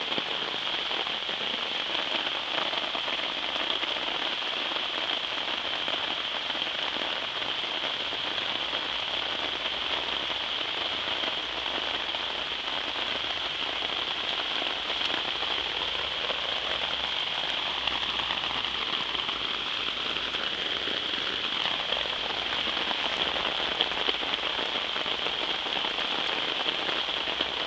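Heavy thunderstorm rain falling on a garden: a steady hiss of rain on the flower beds and lawn.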